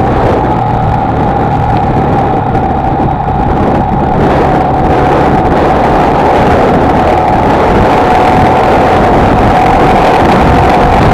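Honda XLR125R's single-cylinder four-stroke engine running at a steady cruising speed, heard from on board with wind and road noise; its pitch eases slightly near the end.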